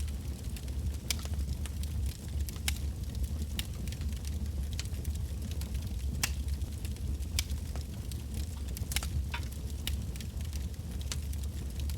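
Wood fire burning in a campfire, with sharp, irregular crackles and pops from the burning logs over a steady low rumble of flame.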